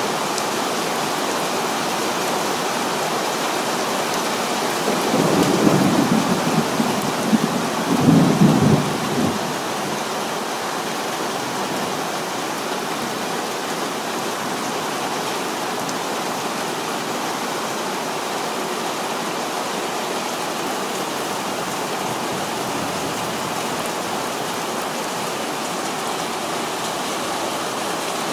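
Heavy thunderstorm rain falling steadily, with a rumble of thunder about five seconds in that swells twice before fading by about nine seconds in.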